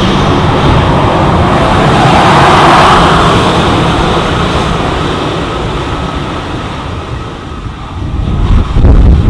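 Airbus A318's CFM56 jet engines at high thrust during takeoff: a loud roar that swells two to three seconds in and then eases off, with heavy gusty rumble of jet blast buffeting the microphone near the end.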